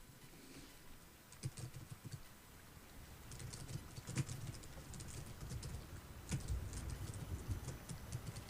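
Computer keyboard typing in irregular runs of keystrokes, starting about a second and a half in, with the clicking closely miked.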